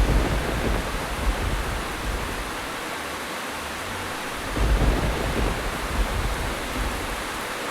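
Steady rain with low thunder rumbles that swell at the start and again about halfway through, each fading within a second or two.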